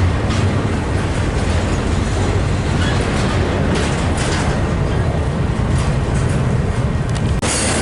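Train rolling past: a steady heavy rumble with clicks of wheels over rail joints. The sound breaks off for an instant near the end and comes back with more hiss.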